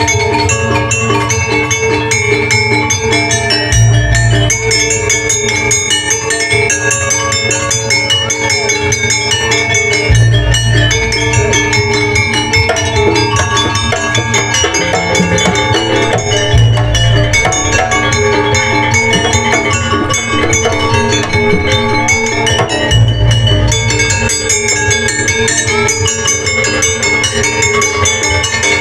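Jaranan accompaniment music from a Javanese gamelan-style ensemble: ringing bronze metallophones and gongs over a busy drum rhythm, with a deep low stroke about every six seconds.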